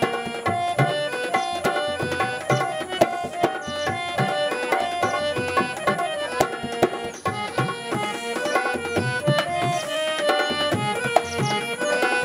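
Instrumental interlude: a harmonium plays a stepping melody of held reedy notes over a steady hand-drum rhythm.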